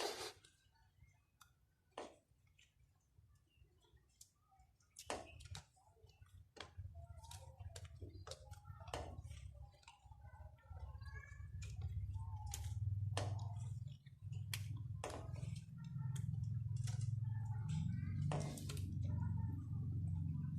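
Scattered clicks and taps of hands-on work on a pump motor, with a low hum that swells in about halfway through and grows steadier and louder toward the end.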